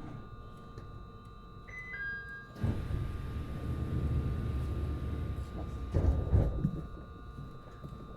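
Interior of a JR East HB-E210 hybrid railcar, with steady electrical whines from its equipment. About two and a half seconds in, a loud rushing hiss starts suddenly and lasts about four seconds, with a few heavy low thumps near its end.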